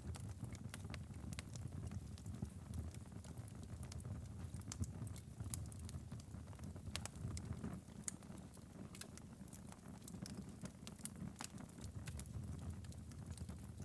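Wood fire in a fireplace crackling, with frequent small irregular pops and snaps over a steady low rumble of the flames.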